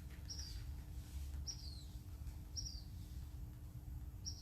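A bird calling, four short high chirps that each fall in pitch, spaced about a second or more apart, over a low rumble and a faint steady hum.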